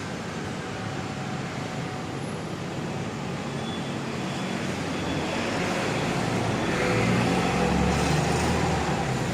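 Street traffic noise, with a motor vehicle's engine growing louder in the second half as it comes close.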